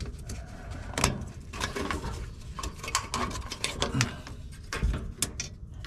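A quick, irregular run of clicks, taps and knocks from parts and tools being handled, with the sharpest knock about a second in and a dull thump near the end.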